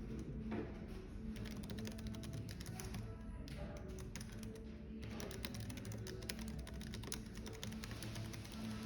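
Fast typing on a computer keyboard in two runs of keystrokes, with a pause of a second or so between them, over background music and low café room noise.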